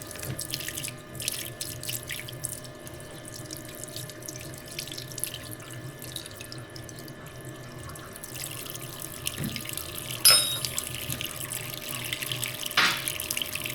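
Metal lathe running steadily, a hum with a hiss like running water over it. There is a sharp metallic clink about ten seconds in and a short knock near the end.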